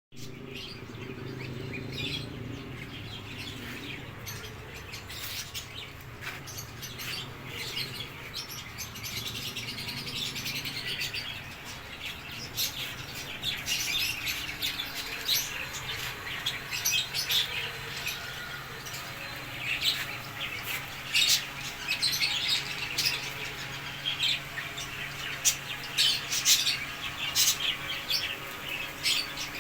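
A flock of caged pet birds (cockatiels, budgerigars and lovebirds) chirping and calling over one another, in short overlapping calls that grow louder and busier about halfway through. A low steady hum sits underneath, strongest in the first few seconds.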